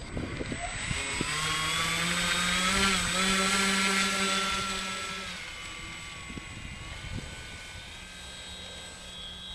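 RC FunCub's electric motor and propeller running up as it taxis. The whine rises in pitch over the first few seconds and holds, then throttles back about halfway and runs on at a lower pitch.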